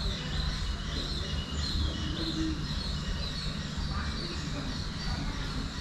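Small birds chirping, short high calls repeated over and over, over a steady low hum.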